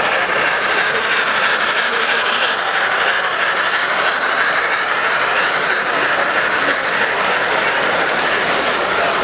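Steady din of a busy model-railroad show hall, even and unbroken, with no single sound standing out.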